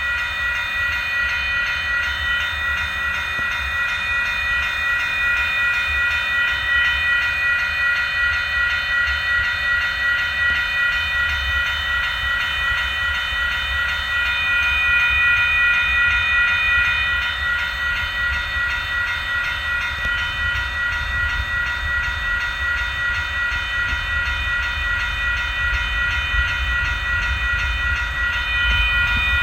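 A train passing, with a steady low rumble and several high steady ringing tones held over it. Loudness swells a little around the middle.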